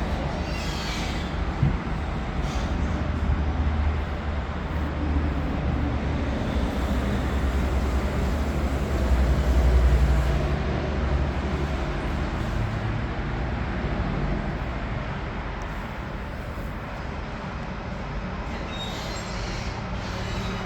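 A steady low rumble, like a vehicle running, swelling to its loudest about halfway through and easing off toward the end.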